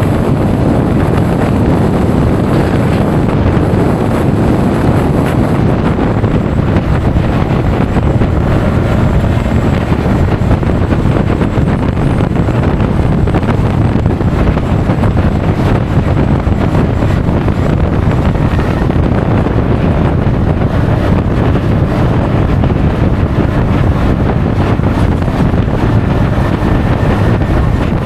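Steady, loud wind rush buffeting an action camera's microphone while riding a Honda Forza 350 scooter, a dense low rumble that covers the scooter's engine and road noise.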